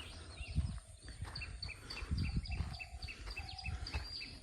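A bird calling in a run of short, evenly repeated high chirps, about three a second, over low rumbling background noise.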